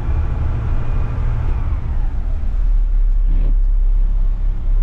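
Front-load garbage truck's engine running with a heavy low rumble. Its pitch eases down over the first two seconds, then settles into a deeper steady drone, with a brief thump or hiss a little past the middle.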